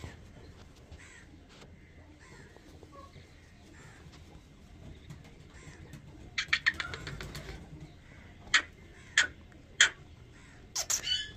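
Short harsh bird calls: a rapid run of calls about six and a half seconds in, then three sharp single calls about half a second apart, and a longer harsh call near the end.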